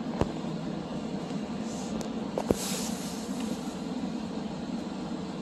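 Steady rumble of commuter trains, with two sharp clicks, the louder one about two and a half seconds in, and a short hiss just after it.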